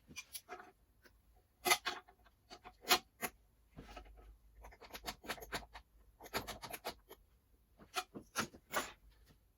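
Irregular scraping, rubbing and clicking of hand work on parts, in short strokes with brief pauses.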